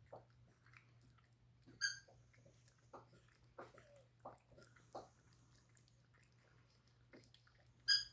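Pets mouthing and licking with soft wet clicks, and two short high-pitched squeals, one about two seconds in and one near the end.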